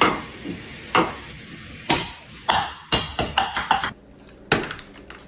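A series of sharp taps or knocks, about one a second at first, then several in quick succession around the middle.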